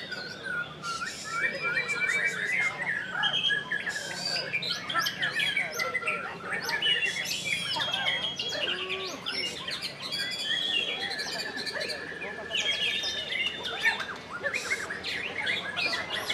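White-rumped shama singing a long, varied song of quick whistles, chattering notes and pitch glides, with a few held clear tones.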